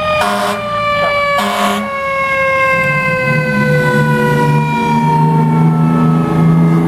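Fire truck siren winding slowly down in pitch, with two short air horn blasts in the first two seconds. The truck's engine comes up underneath from about three seconds in, rising in pitch as it pulls away.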